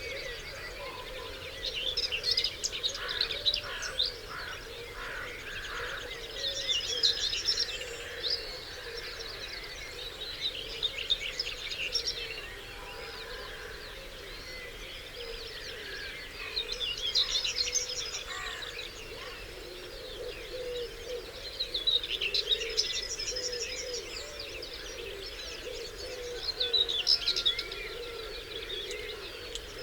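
Dawn chorus of several songbirds singing together, the loudest song phrases recurring every five seconds or so over a continuous background of other birds.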